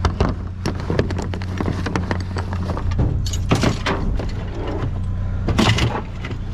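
Junk being rummaged and shifted, with a run of clanks and rattles and the loudest knocks about halfway and near the end. Under it an engine idles steadily.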